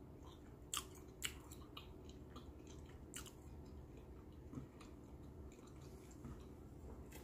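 A person chewing food quietly with the mouth closed, with a few short, sharp wet mouth clicks; the loudest two come about a second in.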